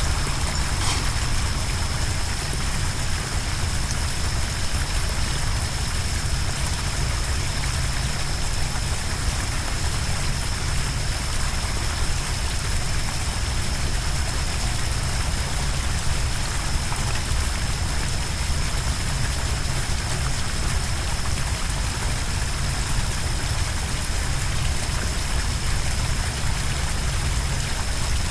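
Steady rush of flowing or falling water with a deep rumble underneath, and a thin high steady tone over it.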